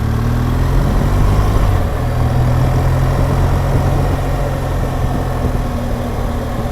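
BMW R1200GSA's boxer-twin engine pulling at low speed in first gear, revs held steady, with wind and road noise over it.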